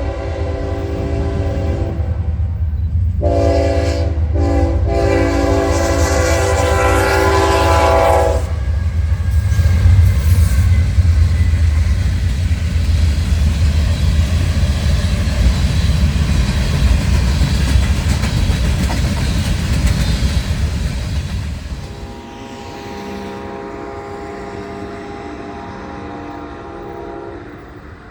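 Train horn sounding a long chord, then a second long blast broken by two brief gaps. The train then passes close with a loud low rumble of wheels on rails for about fourteen seconds. Near the end, once the rumble drops away, the horn chord sounds again, quieter.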